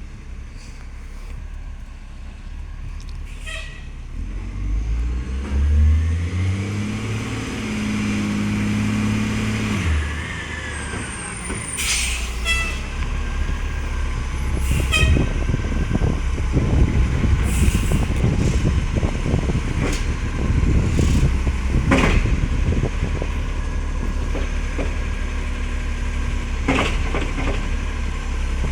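Garbage truck diesel engine revving up for several seconds and settling, then running with a dense low pulsing, likely from its leaking exhaust. Short air hisses from the air brakes or pneumatics break in several times, the first with a falling whistle.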